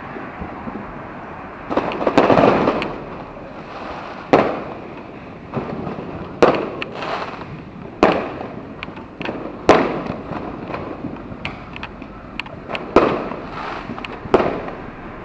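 Fireworks and firecrackers going off, loud sharp bangs at irregular intervals of about one to two seconds, each trailing off in an echo, with a denser run of bangs about two seconds in.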